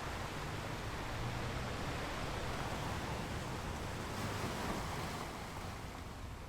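Ocean surf, a steady rush of waves that swells a little in the middle and eases off near the end.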